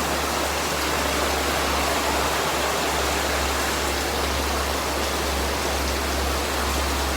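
Heavy rain pouring down, a steady even rush of water.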